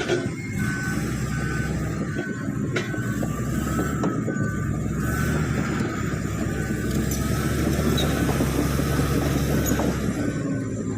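Komatsu D85PX bulldozer's diesel engine running steadily under a low rumble, with its reversing alarm beeping at an even pace throughout.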